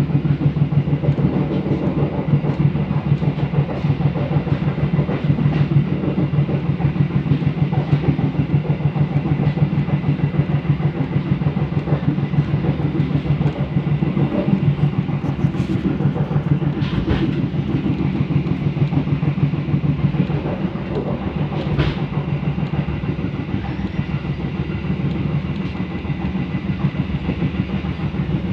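Passenger train running along the track: a steady low rumble of wheels on rails with a rapid pulsing, and a few sharp knocks in the second half.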